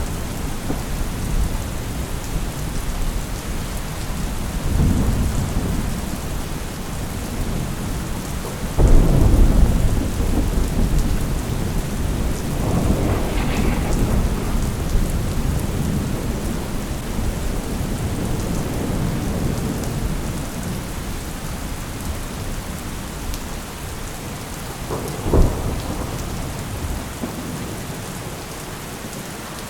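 Thunderstorm: steady rain with rolling thunder. A sudden thunderclap about nine seconds in is the loudest moment and is followed by long rumbling, and a shorter, sharper clap comes near the end.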